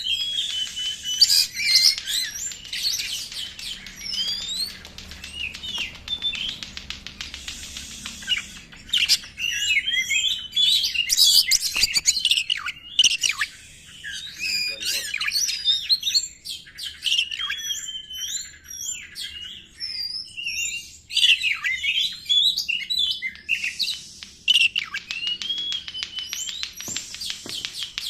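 Oriental magpie-robin (kacer) singing a long, busy song of rapid whistles, chirps and quick up-and-down slurred notes, in the jumbled 'konslet' style.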